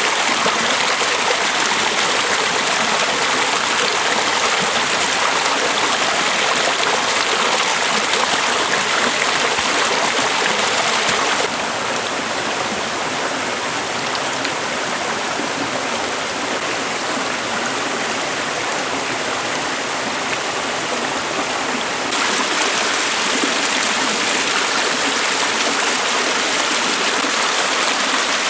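Mountain valley stream flowing, a steady rush of water. About eleven seconds in it turns somewhat quieter and duller for some ten seconds, then returns to its full level.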